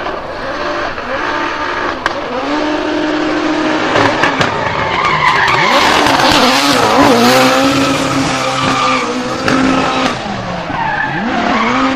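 Drift car's engine revving hard and dropping back in quick swings while its tyres squeal through a slide, growing loudest about halfway through and easing off near the end.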